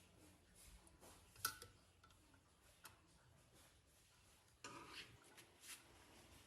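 Near silence broken by a few faint, sharp clicks and light taps: one about a second and a half in, a smaller one a little later, and a short cluster near the end.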